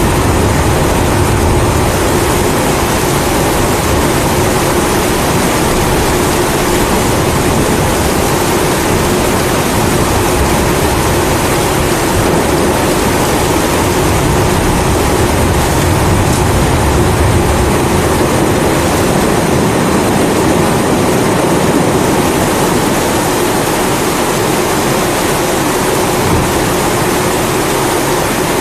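Kerosene pressure stove (primus) burner roaring steadily, mixed with steady rain; low rumbles of thunder swell and fade a few times.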